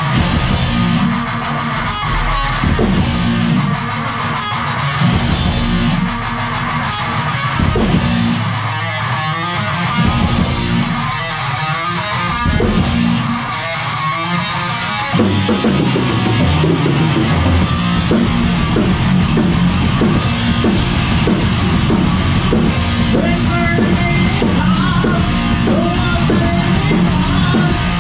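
Heavy metal music: distorted electric guitar riffing over drums, with cymbal crashes every couple of seconds. About halfway through, the full drum kit comes in and the music turns dense and driving.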